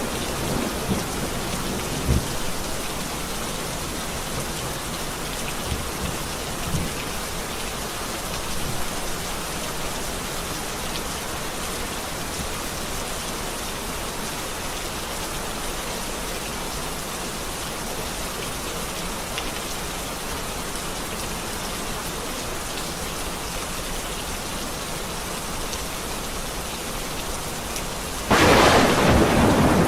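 Steady rain falling in a thunderstorm, with a few low rumbles of thunder in the first several seconds and a loud clap of thunder near the end.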